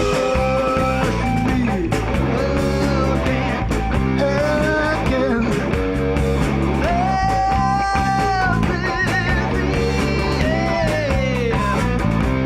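Live rock band playing: electric guitar lead over bass and drums, with long held, bending notes.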